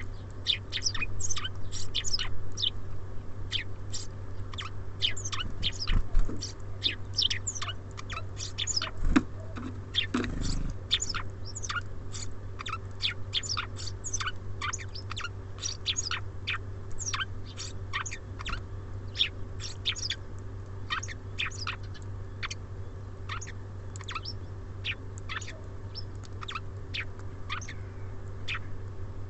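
Small songbirds at a feeder giving many quick, high, falling chirps over one another, without pause. A steady low hum sits underneath, and a few dull knocks come in the first half.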